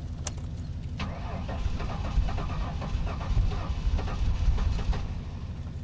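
A vehicle engine idling steadily. From about a second in, close rustling with light knocks of handling is heard over it.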